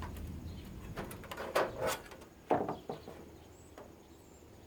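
Handling noise from an air purifier being taken apart: a series of separate knocks and clicks of its plastic and metal parts, several in the first half and then quieter.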